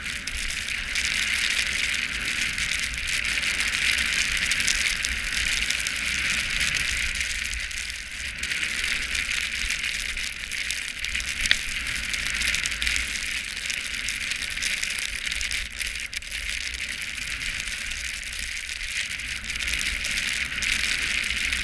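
Steady hiss of sliding over packed snow on a ski run, swelling and easing with the turns, with a low wind rumble underneath.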